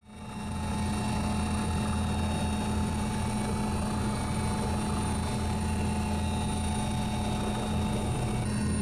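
Helicopter engine and rotor noise: a steady drone with constant low tones and a thin high whine. It fades in over the first half second.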